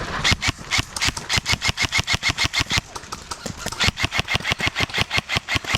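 Paintball marker firing rapid strings of shots, about eight pops a second, in two long bursts separated by a short pause about three seconds in.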